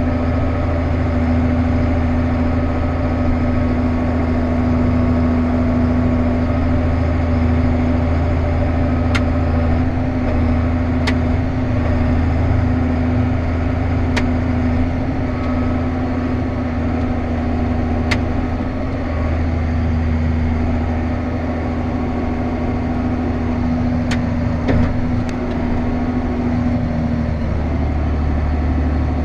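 A harvest machine's engine runs steadily with a loud low hum. A steady tone in it drops away a couple of seconds before the end, and a few faint ticks sound over it.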